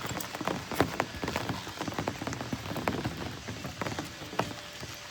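Rain falling, with individual drops striking a nearby surface as irregular sharp ticks. The rain is easing off, and the ticks thin out near the end.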